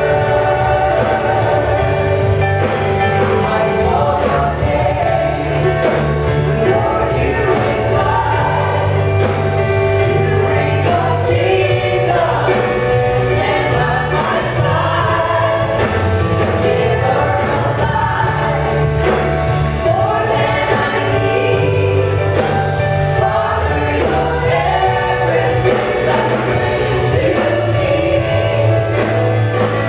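Choir and band performing gospel worship music, with voices singing over sustained keyboard chords, bass and a steady beat.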